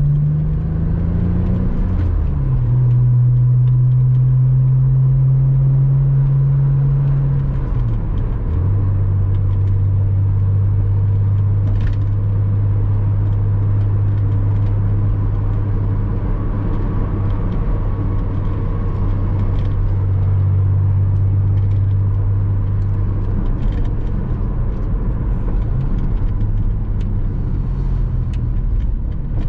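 Porsche Boxster 986's flat-six engine pulling through the gears: it rises in pitch, drops with a gear change about two seconds in and again about eight seconds in, then runs at a steady cruise with a low hum of road noise.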